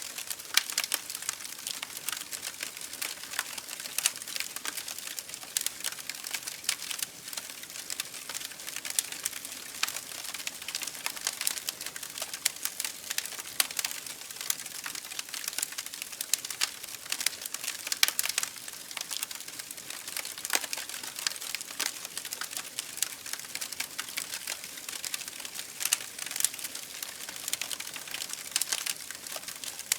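Campfire burning: wood crackling and popping in quick irregular snaps over a steady hiss of flames.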